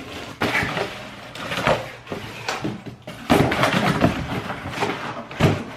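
A cardboard box being cut open with a knife and unpacked: irregular scraping and rustling of cardboard and packing, with a few knocks. The handling is loudest just past the middle.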